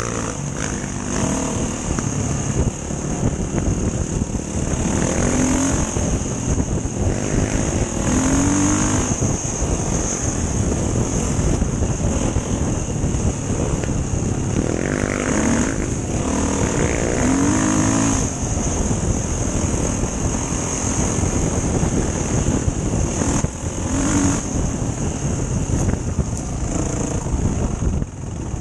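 Enduro dirt bike engine running under heavy wind and riding noise, rising in short revs several times.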